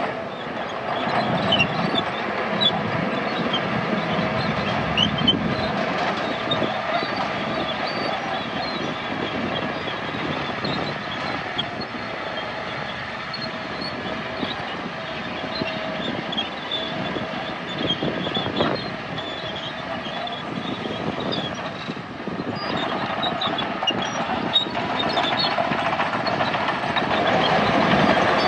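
Crawler bulldozer running, its engine steady under the clank and squeal of its steel tracks as it works.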